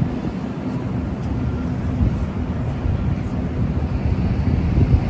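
Wind buffeting the microphone over the steady rumble of city street traffic.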